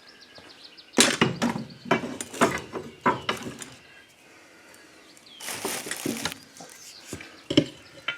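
A run of sharp knocks and clatters as a small lawn mower tire is worked on its steel rim with hand tools and a pry bar. About five and a half seconds in there is a short rushing scrape.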